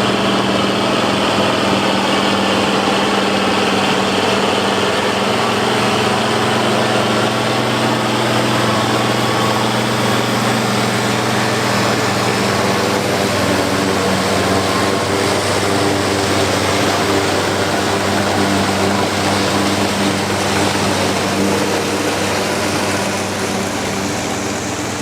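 International 1086 tractor's turbocharged six-cylinder diesel running steadily under load while driving a New Holland FP240 forage harvester chopping corn, with a broad rushing noise from the harvester over the engine note. The engine note shifts slightly about halfway through.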